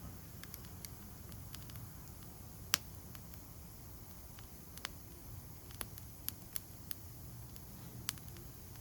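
Backyard wood bonfire crackling: irregular sharp pops and snaps, the loudest a single pop about three seconds in, over a low steady rumble.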